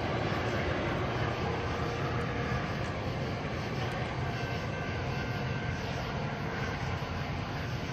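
Steady low rumble of a distant train on the tracks, easing slightly in level.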